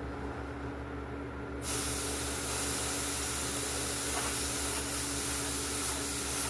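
Compressed-air paint spray gun spraying urethane clear coat: a steady hiss that starts about two seconds in and cuts off suddenly near the end, over a steady low hum.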